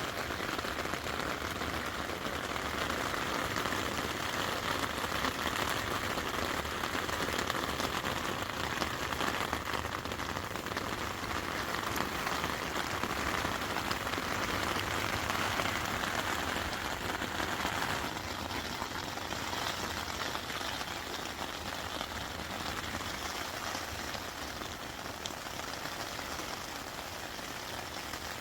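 Steady rain falling, an even patter that eases slightly about two-thirds of the way through.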